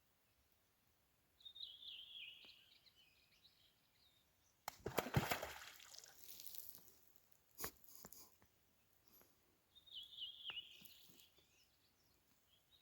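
A bird calling twice, short high calls that fall in pitch, in a quiet outdoor setting. Between the calls comes a louder burst of noise lasting over a second, then a single sharp click.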